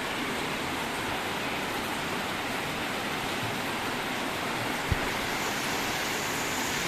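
Heavy rain falling steadily as an even hiss, with one short low thump about five seconds in.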